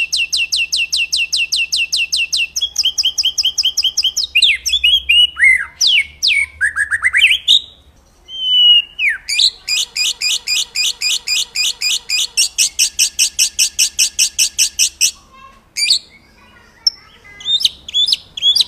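Songbird singing a master song for training a white-rumped shama: long, fast trills of repeated high notes, about nine or ten a second, broken by swooping whistles and two short pauses, then scattered chirps near the end.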